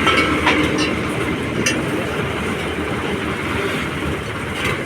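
Tractor diesel engine running steadily, with a few sharp metallic clicks and rattles over it.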